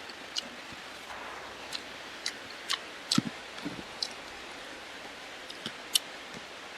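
Close-up eating sounds: irregular sharp wet clicks of chewing and lip-smacking, with a couple of soft thuds a little past halfway, over a steady hiss of rain.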